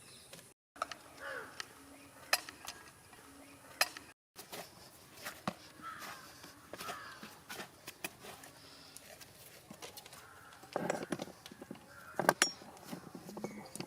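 Scattered sharp clicks and taps over a faint outdoor background, with a few short bird-like calls; the sound cuts out completely twice near the start.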